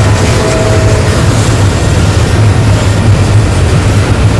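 Freight train passing close by: a loud, steady low rumble with rolling noise.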